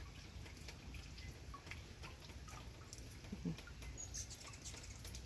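Rain falling steadily, with scattered drips and taps, and a few high, thin squeaky chirps from hummingbirds, most plainly about four seconds in.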